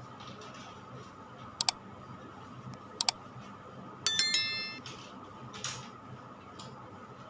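Two sharp double clicks about a second and a half apart while a ceiling exhaust fan's cover is being fitted, then a bright metallic ding that rings out and dies away over about a second.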